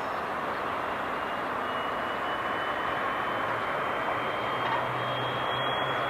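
Jet airliner engines running: a steady rushing noise with a thin high whine that rises slowly in pitch, and a low hum joining about four seconds in.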